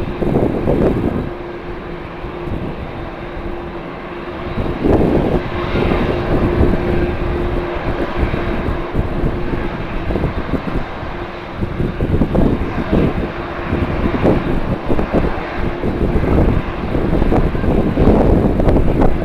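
Jet airliner engines running with a steady low hum, under strong wind buffeting the microphone in gusts, heaviest at the start and again near the end.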